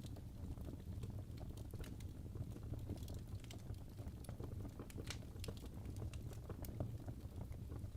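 Wood fire burning in a fireplace: a steady low rumble of flame with many irregular sharp crackles and pops from the logs.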